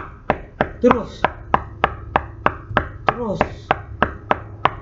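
Rapid, evenly spaced knocking on a hard surface, about three to four sharp knocks a second, re-creating a loud knocking heard in the night that sounded like someone hammering a nail into a wall.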